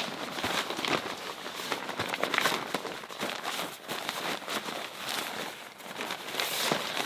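Continuous rustling and crinkling of handled material, with many small clicks scattered through it.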